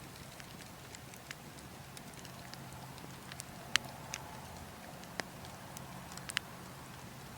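Log fire crackling: scattered sharp pops and snaps, the loudest about four and five seconds in, over a steady low rumble of wind.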